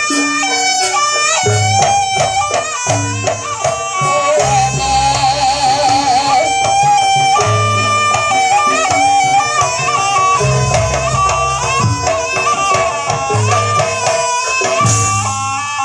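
Live jaranan buto accompaniment: a wavering, ornamented reed-pipe melody played continuously over drums and recurring low beats.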